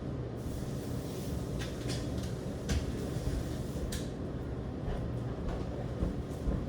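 A spray hissing for a few seconds, with several short sharp bursts, over a low steady hum.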